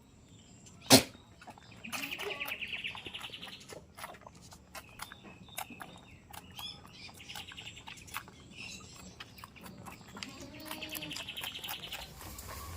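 A small bird calling in short, fast, buzzy chatters, three times at a few seconds' interval. A single sharp click sounds about a second in, louder than anything else.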